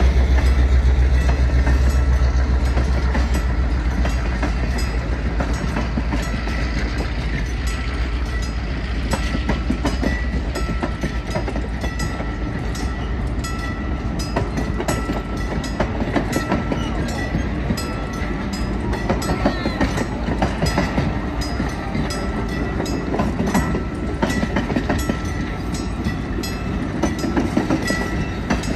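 Niles Canyon Railway Train of Lights cars rolling slowly past over a grade crossing, with a low rumble loudest in the first few seconds and a steady run of wheel clicks over the rail joints. A crossing bell rings over it, in short repeated dings.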